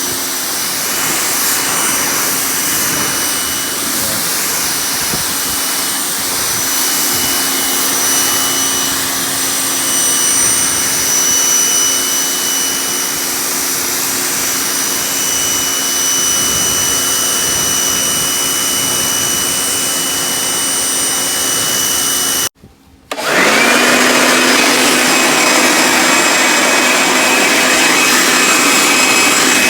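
An electric motor-driven machine runs steadily with a constant whine. About 22 seconds in the sound cuts off abruptly, and after a short gap a motor spins up with a rising whine and settles into a louder steady run.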